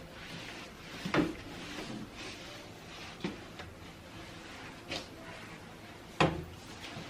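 Household handling sounds during cleaning: a steady rubbing or rustling with several sharp knocks, the loudest about a second in and near the end.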